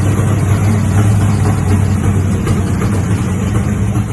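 525 cubic-inch big-block Chevrolet V8 idling steadily, running after its first start in five years.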